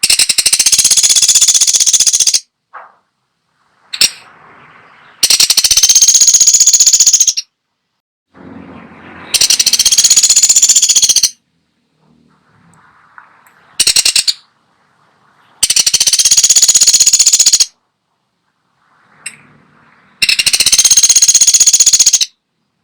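Pelatuk sampit woodpecker giving loud, very fast rattling bursts of about two seconds each, five times with pauses of two to four seconds between them, plus one short rattle in the middle.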